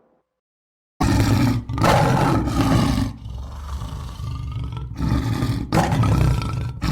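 Lion roaring: a run of deep, rough roars in several bouts, starting about a second in after a moment of silence.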